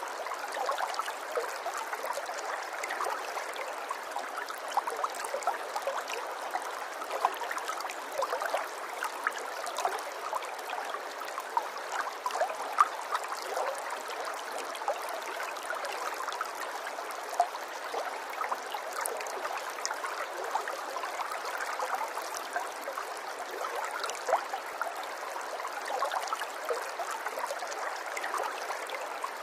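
Running water babbling and trickling steadily, with many small splashes and droplet ticks throughout.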